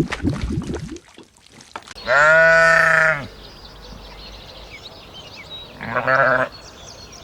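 Bleating from a farm animal: one long call and then, a few seconds later, a shorter one, with small birds chirping faintly between them. Rapid clicking and knocking fills the first second, before the calls.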